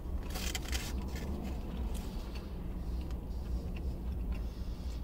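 A person chewing a mouthful of crispy fried chicken burger, with soft crunching clicks scattered through and a cluster of them about half a second in, over a steady low hum inside a car.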